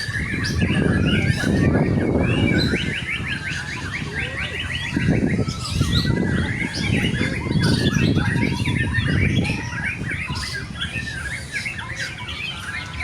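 White-rumped shamas (murai batu) singing together in a dense mix of fast chirps, whistles and trills, including a run of quickly repeated notes a few seconds in.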